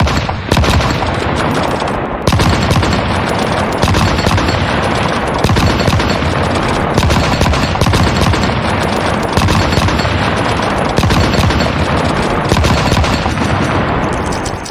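Gunfire sound effect: a long, unbroken volley of rapid automatic fire, with louder shots standing out every second or two.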